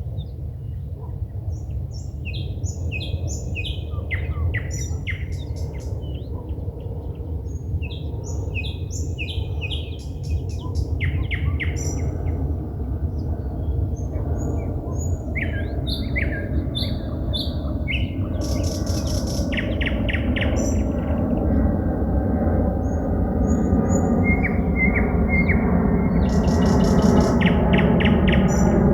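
Forest songbirds singing at night: varied short whistled phrases and fast clicking trills. Beneath them runs a low rumble and a steady mechanical hum that grows louder through the second half.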